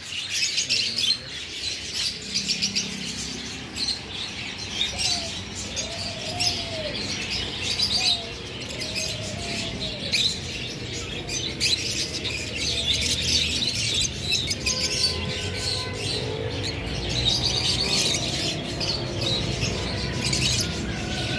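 A crowd of caged shop birds chirping and tweeting together in a dense, continuous chatter of short high calls.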